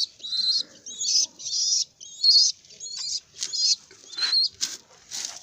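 Baby pigeon (squab) calling: a run of about ten short, shrill, high-pitched squeaky peeps, roughly two a second.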